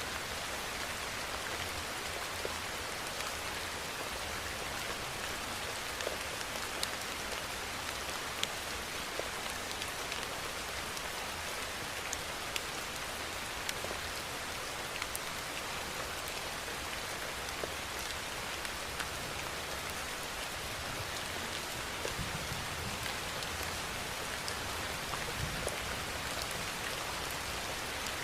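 Steady rainfall with individual drops ticking sharply on a surface, over a faint low rumble.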